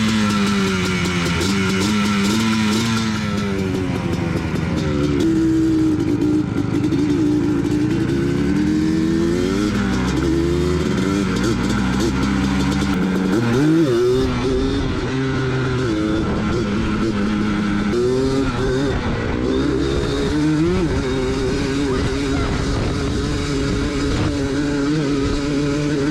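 Small off-road engine revving up and down repeatedly while being ridden, its pitch rising and falling over and over.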